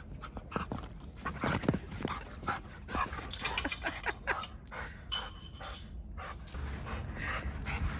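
A big mixed-breed dog panting quickly, with a few short knocks mixed in.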